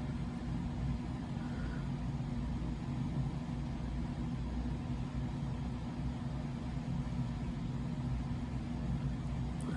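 Steady low mechanical hum, unchanging throughout, with a faint background hiss.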